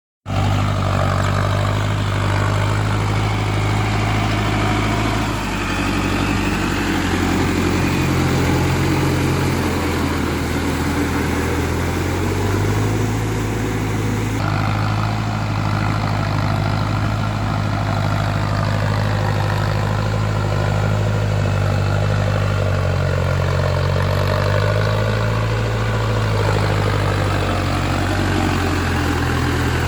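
Mahindra 6060 4WD tractor's diesel engine running steadily, with a low, even engine note.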